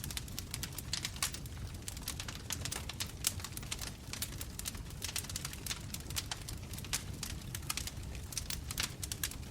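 Bonfire crackling, with frequent sharp, irregular pops and snaps over a low steady rumble of the flames.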